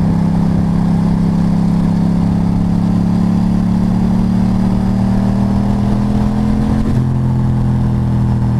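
Motorcycle engine running at a steady cruise, its pitch creeping slowly upward and shifting about seven seconds in, over steady road and wind noise.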